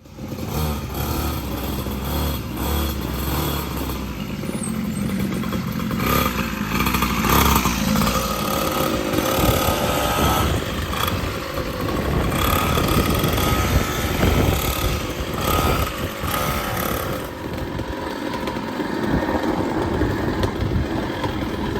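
Kawasaki KMX 125 two-stroke single-cylinder dirt bike engine running and revving as it is ridden, its pitch rising and falling.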